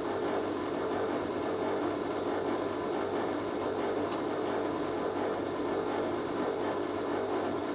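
Hoover A3060 Electronic 1100 washing machine running steadily, its motor turning the drum with a load that looks slightly unbalanced. There is a single short click about four seconds in.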